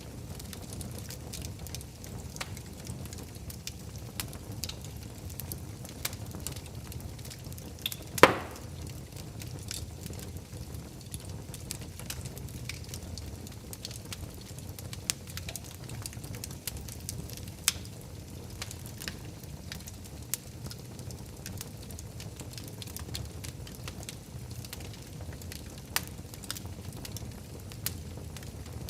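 Wood fire in a fireplace crackling over a steady low rumble, with scattered small pops and one loud sharp pop about eight seconds in.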